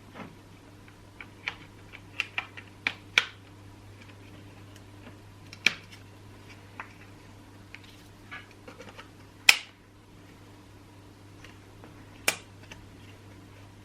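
Irregular sharp clicks and taps of chainsaw parts and hand tools being handled during reassembly, the loudest knock about nine and a half seconds in, over a steady low hum.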